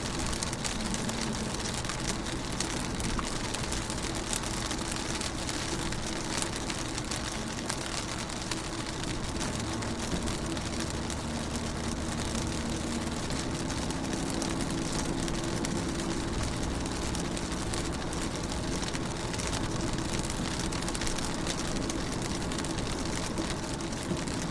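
Rain falling on a car's windows: a dense, even hiss of many small drops, with a steady low hum underneath.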